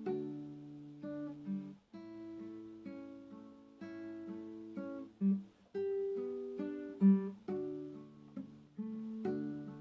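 Acoustic guitar (violão) playing slow, gentle music, plucked chords and single notes ringing on, with a short break in the sound about two seconds in.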